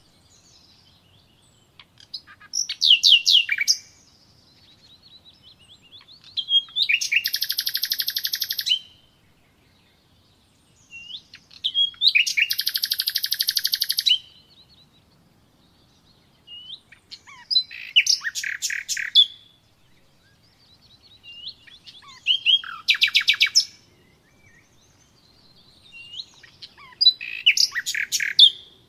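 A songbird singing: high, rapid trilled and chirping phrases, each one to two seconds long, repeated about every four to five seconds with short quiet gaps between them.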